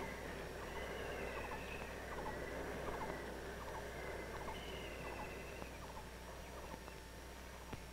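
Faint bird calls: a run of short repeated notes about two a second, with a longer high note about a second long near the start and again past the middle, over a steady hiss.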